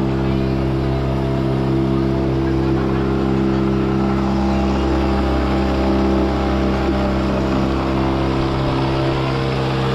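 Motorboat engine running steadily at an even speed, a loud, constant drone.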